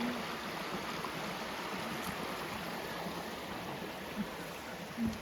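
Creek water running: a steady rush of flowing water, with a short thump just before the end.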